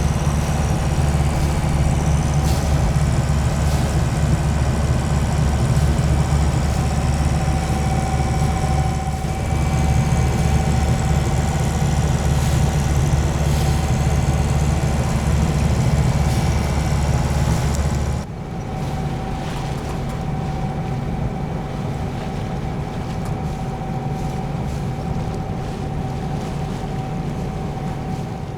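A sailboat's inboard engine running steadily under way, a constant low drone with a faint steady whine. About 18 seconds in the sound changes abruptly: the deep rumble drops away, leaving a lighter, steady hum.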